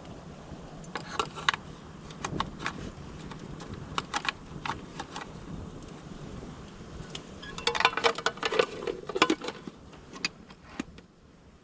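Metal objects being handled: scattered light clicks and knocks, then a quick run of metallic clinks with a brief ringing tone about eight seconds in.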